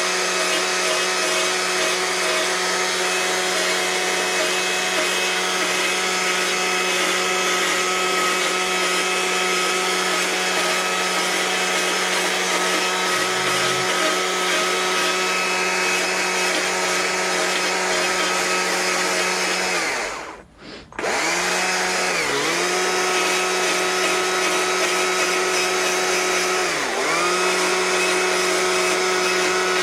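Two-stroke carving chainsaw with a small 14-inch bar, held at high revs while cutting a fur pattern into wood. Its pitch dips briefly a few times as the chain bites. It drops out for about a second around two-thirds of the way in, then revs straight back up.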